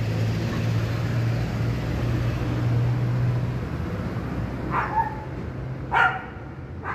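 A dog barking three short times in the second half, the middle bark the loudest, over a steady low hum that fades out partway through.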